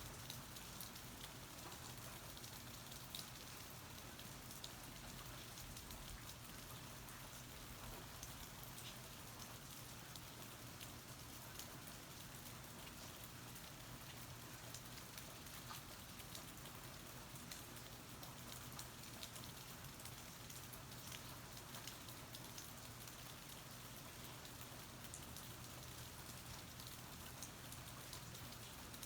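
Steady rain falling, soft and even, with many small sharp drop ticks scattered through it.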